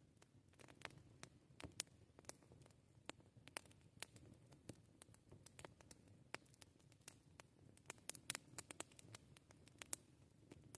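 Campfire crackling: irregular sharp pops and snaps of burning wood over a faint low rumble, with a quick cluster of snaps about eight seconds in.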